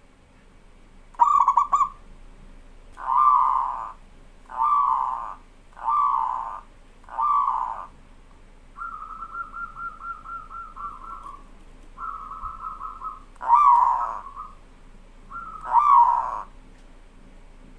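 Zebra dove (perkutut) cooing: a run of short, separate coos about a second and a half apart, then two quick rattling trills, then two more loud coos near the end.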